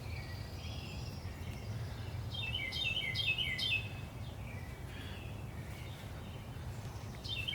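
A songbird chirping, with a quick run of about five repeated chirps between two and four seconds in, over a steady low background hum.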